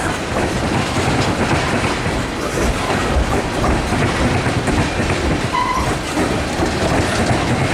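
Freight train of loaded tank cars rolling past over a railroad diamond crossing, the wheels clattering steadily over the crossing's rail joints.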